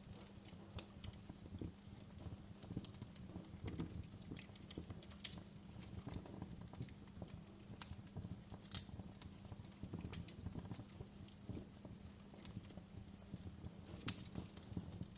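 Wood fire crackling: irregular sharp pops and snaps over a steady low rumble of burning, with a few louder pops about nine seconds in and near the end.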